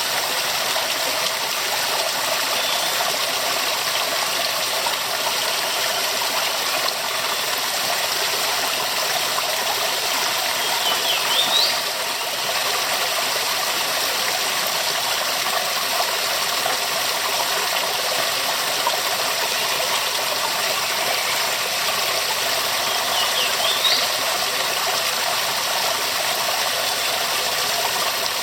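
Waterfall with a steady, dense rush of falling water that stays even throughout. Two short high chirps cut through it, one near the middle and one near the end.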